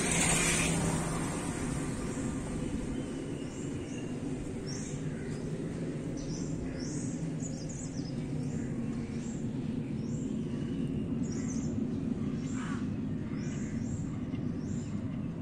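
Birds chirping, short high calls repeating about once or twice a second from a few seconds in, over a steady low background rumble. A brief rush of noise comes at the very start.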